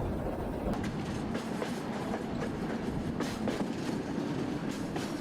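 Train running on rails, a steady rumble with repeated clicks and knocks of wheels passing over rail joints.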